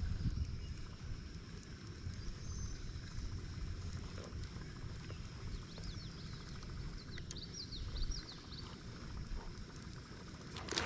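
Quiet open-air ambience on a lake: a low rumble of wind on the microphone. A few brief high bird chirps come in the middle.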